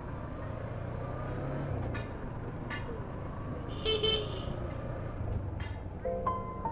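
Road vehicle noise, a steady low rumble, with a short vehicle horn toot about four seconds in and a few sharp clicks. Music comes in near the end.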